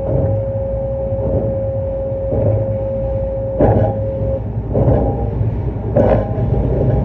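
JR East E259 series Narita Express electric train running, its wheels clattering over rail joints about every 1.2 seconds over a steady rumble. A steady tone runs alongside and cuts off about four seconds in.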